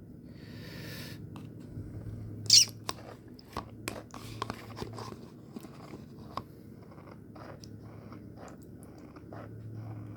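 Guacamole being spooned onto a plate of tortilla chips: scattered clicks, taps and crackles of utensil and chips, the sharpest tap about two and a half seconds in, over a steady low hum.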